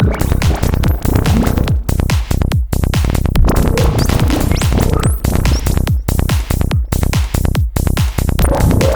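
Psytrance music with a fast, pulsing beat, layered with analog modular synthesizer effects and short gliding synth sweeps.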